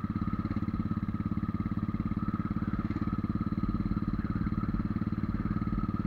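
Motorcycle engine running steadily under way, a fast, even beat of firing pulses heard from on the bike. The rider says the thin air at this altitude keeps the engine from building pressure and picking up power.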